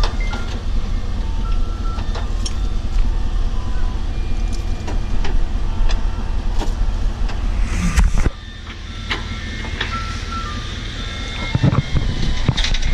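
A vehicle engine running in a steady low rumble, dropping away suddenly about eight seconds in. Short high beeps and clicks sound over it.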